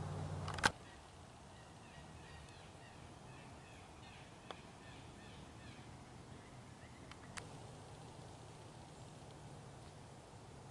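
Quiet woodland air with faint, high small-bird chirping through the middle seconds. A low steady hum cuts off with a sharp click just under a second in, and two softer clicks come later.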